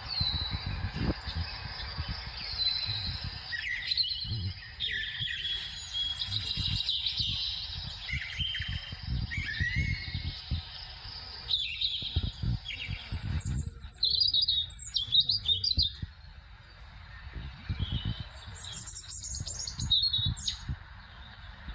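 Several small birds chirping and calling in short, varied phrases, with an uneven low rumble underneath.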